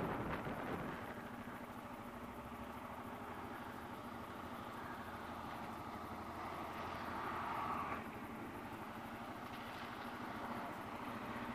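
Kawasaki KLR650 single-cylinder engine idling steadily. A rush of wind noise dies away in the first second, and a rushing noise swells and cuts off about eight seconds in.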